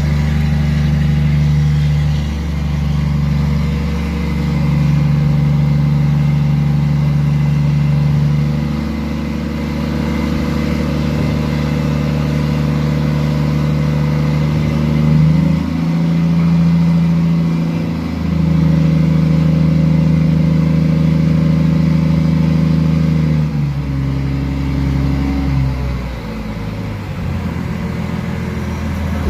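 Heavy trailer truck's engine running steadily, its pitch stepping up and down a few times and settling lower near the end as the engine speed changes.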